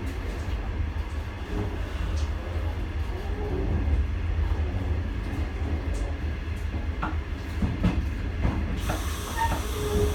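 Passenger train running out of a station, heard from inside the coach: a steady low rumble with occasional sharp clicks from the wheels and track. A steady hiss joins in near the end.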